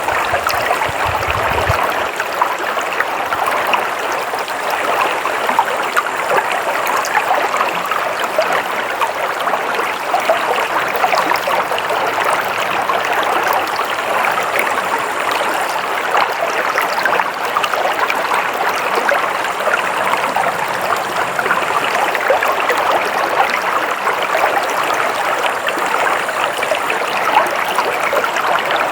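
Flowing water in a stream, a steady babbling splash with no pauses.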